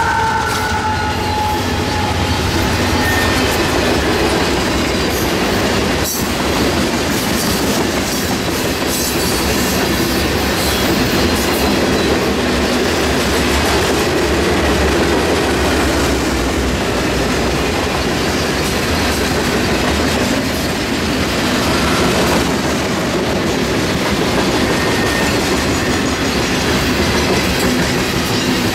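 Freight train of covered grain hopper cars rolling past at close range: a steady, loud rumble of wheels on rail, with repeated clicks as the wheels cross rail joints.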